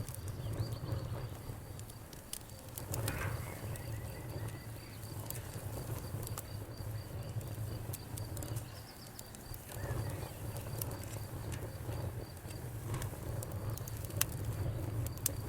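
Wood fire in a fireplace crackling: irregular sharp pops and snaps over a steady low rumble of the flames. A faint, evenly pulsing high chirp runs beneath it for much of the time.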